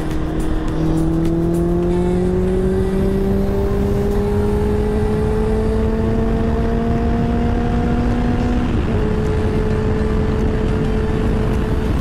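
Motorcycle engine pulling under way, with heavy wind rumble on the microphone. Its pitch climbs steadily as the bike accelerates, then drops at an upshift about nine seconds in and holds steady.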